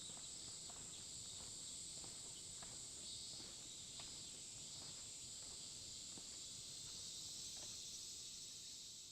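Steady high-pitched chorus of insects, with soft, regular footsteps underneath.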